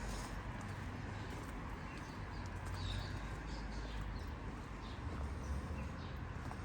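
Quiet street ambience: a steady low rumble of distant traffic, the walker's footsteps, and a few short bird chirps about three seconds in.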